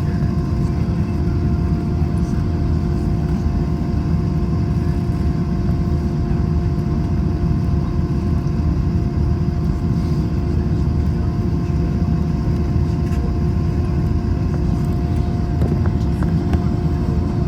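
Steady cabin noise inside an Airbus A321 on the ground after landing: a loud low rumble with a steady hum of several tones held throughout.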